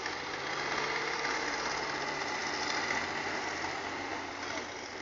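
Truck engine running steadily under power, growing louder at the start and easing off near the end.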